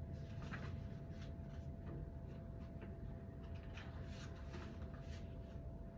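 Faint rustling and light clicks from the dryer's parts and instruction papers being handled, over a steady low hum.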